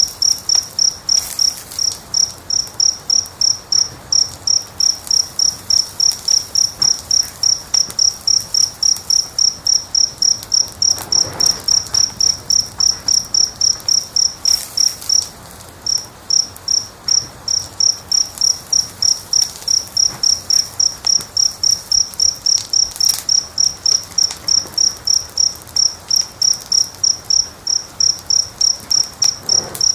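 A cricket chirping steadily in a high, even rhythm of about three chirps a second, pausing briefly about halfway through. Faint crackles from a wood fire sound underneath.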